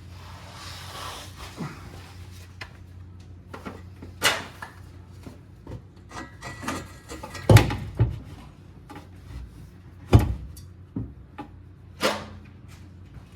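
Scattered knocks, clanks and scrapes of a car's exhaust parts being worked by hand into line against the manifold, with four louder knocks spread through.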